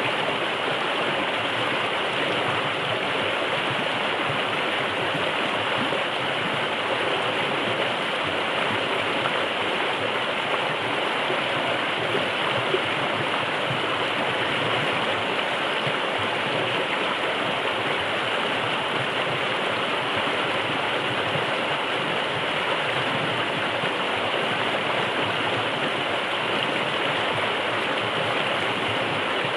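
River water rushing steadily, an even, unbroken noise with no music or birdsong standing out.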